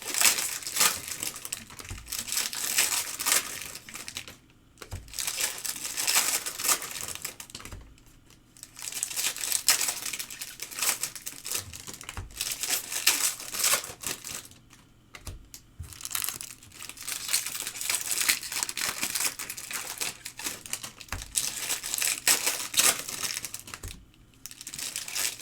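Trading-card pack wrappers of 2022 Topps Stadium Club Chrome crinkling and tearing as packs are opened and cards handled, in stretches broken by brief pauses, with a few soft thumps.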